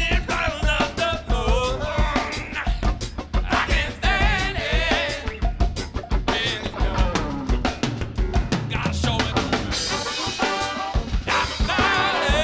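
Funk band playing, driven by a busy drum-kit beat with kick and snare, over wavering lead lines.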